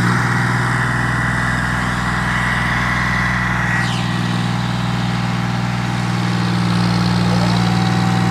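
John Deere 5055 tractor's diesel engine running steadily, getting a little louder in the second half. A brief falling high-pitched squeal comes about four seconds in.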